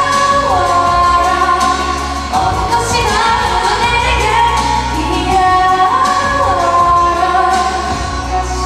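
A female pop singer singing a ballad live over backing music, with long held notes that slide down in pitch.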